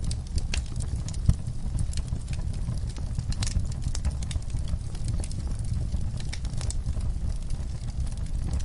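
Wood fire burning in a fireplace, crackling with irregular sharp pops over a low steady rumble; one louder pop about a second in.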